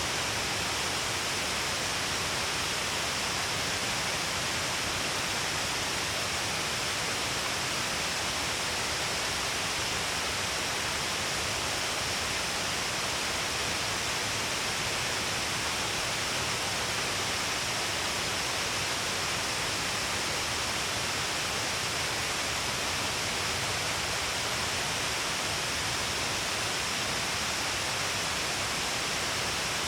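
Shiraito Falls, a wide cliff face with many thin waterfalls, giving a steady, even rush of falling water and spray with no breaks or changes.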